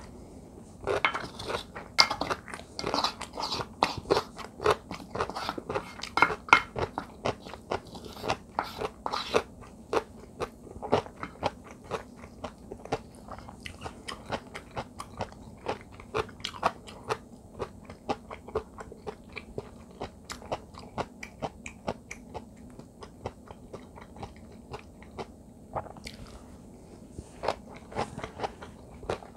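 Close-miked chewing of kkakdugi (cubed radish kimchi) fried rice: a steady run of crisp crunches from the radish pieces, busiest in the first ten seconds and sparser after.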